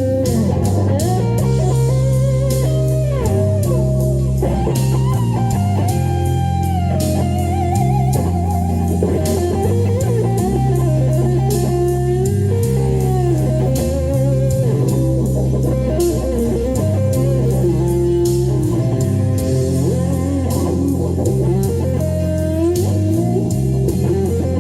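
Electric guitar playing a lead melody with bent notes over a blues-rock backing track with a stepping bass line and a steady beat.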